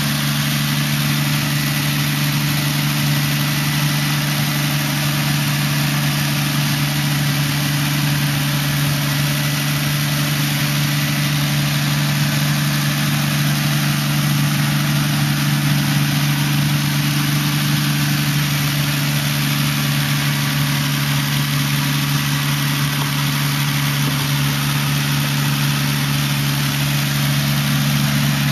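Toyota 1JZ-GTE turbocharged inline-six, with a single GT35R turbo and Greddy titanium exhaust, idling steadily with no revving.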